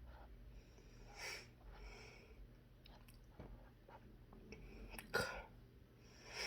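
A man sniffing several times, with one short, sharp stifled sneeze about five seconds in: hay-fever allergy symptoms.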